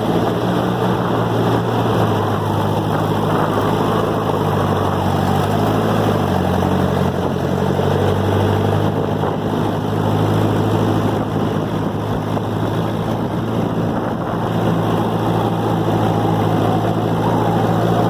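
Ferguson TO-20 tractor's four-cylinder petrol engine running steadily, warmed up after a cold start, its pitch dipping and rising briefly about six seconds in.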